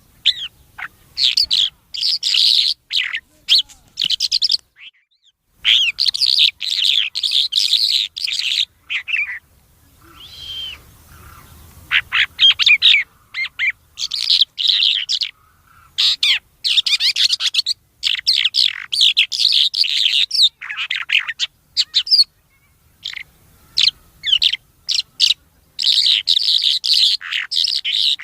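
Songbird known in Pashto as tor ghoora singing in rapid, dense runs of high chirps and trills, in several bouts broken by short pauses.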